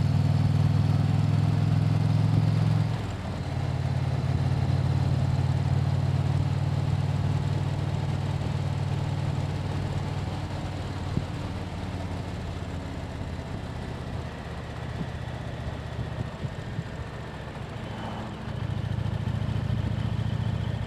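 Motorcycle engine running steadily while riding, with a low even drone; it drops briefly about three seconds in, as when the throttle is rolled off, then picks up again, and grows louder again near the end.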